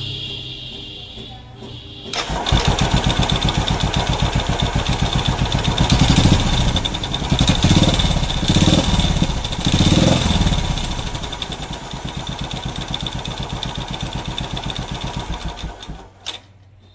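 Royal Enfield Classic 350's single-cylinder engine catching about two seconds in, revved up three times, then idling with an even beat until it is switched off near the end. This is a test run after repair work for a knocking at start-up.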